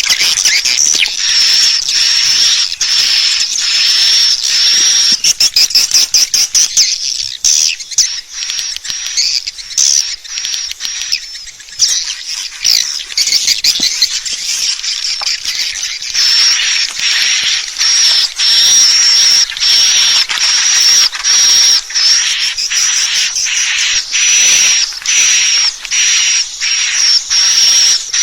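Swiftlet lure call: a dense, continuous stream of high-pitched, rapid twittering chirps of swiftlets, with a thin high whistling note running through much of it. This is the recorded call played to draw swiftlets into a nesting house.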